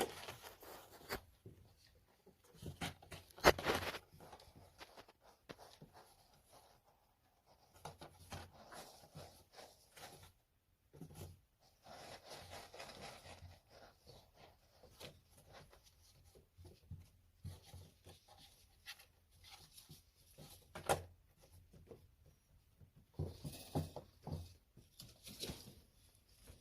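Kittens moving about and playing: scattered light taps, scratches and rustling, with a sharper knock about three and a half seconds in and another about twenty-one seconds in.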